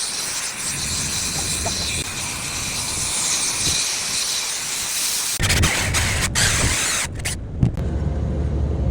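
Pressurised gas hissing loudly from an HVAC unit's refrigerant lines as the evaporator restriction is being cleared. About two-thirds of the way through it changes suddenly to a low rumble with a few sharp knocks.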